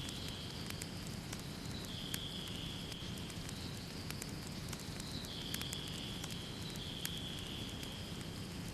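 Wood fire in a fireplace crackling, with irregular sharp pops over a steady low rumble of the flames. A faint high whistling tone comes and goes every couple of seconds.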